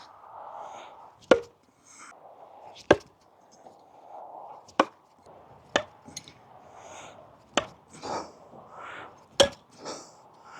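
Thrown knives hitting a target: six sharp hits at uneven intervals of one to two seconds, with softer noises between them.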